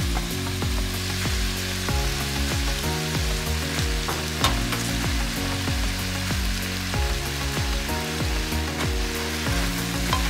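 Stir-fry of pork and bamboo shoots sizzling steadily in a frying pan as greens go in, with a few sharp clicks. Background music with a steady bass line runs underneath.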